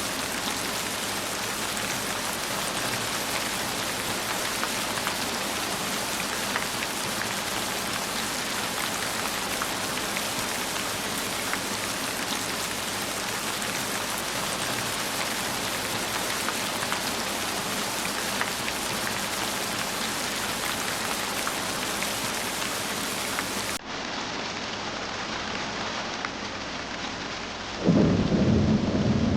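Heavy, steady rain, a dense wash of drops on surfaces; about four-fifths of the way through it turns abruptly duller. Near the end a sudden loud clap of thunder rumbles for a second or two.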